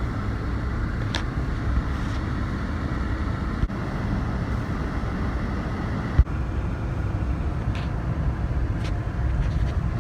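Steady low rumble of engine and road noise inside a moving vehicle's cabin. A sharp knock comes about six seconds in, and a smaller one a little before four seconds.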